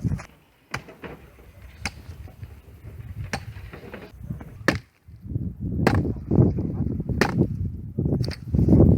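Firewood being chopped: sharp strikes on wood at a regular pace, about one every second and a quarter, with a low rumbling noise coming in about halfway through.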